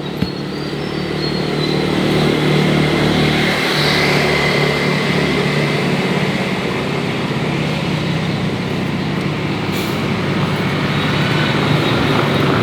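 Engine of a four-wheeled farm vehicle running steadily, growing louder over the first couple of seconds.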